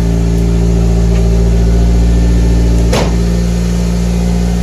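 Toyota Corolla's four-cylinder engine idling steadily while the cooling system is bled of air after a radiator replacement. A single sharp click sounds about three seconds in.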